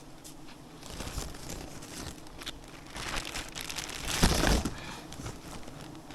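Crinkling and crunching noises, with a louder crunch just after four seconds in.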